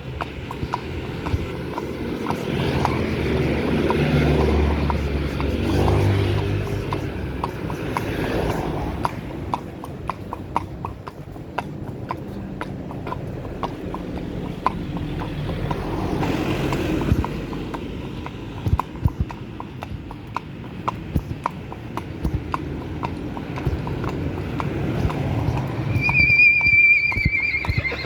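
Horse hooves clip-clopping in a steady walking rhythm during a ride. A brief high-pitched tone sounds near the end.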